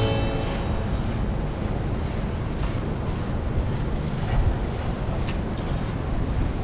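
Steady low rumbling city street noise in a blizzard, wind and traffic, with a brief thump about four and a half seconds in.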